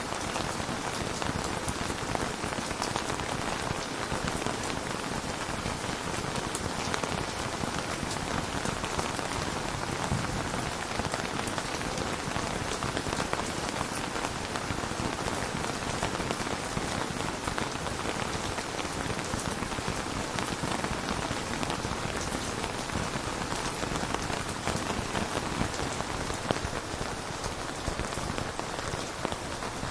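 Steady rain falling on a surface, a continuous even patter with individual drops audible.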